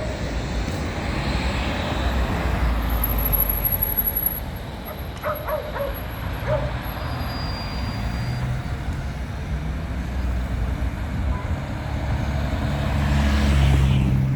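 Electric tram running along a city street amid traffic: a steady low rumble, with a thin high squeal a few seconds in and a deeper motor hum that swells near the end.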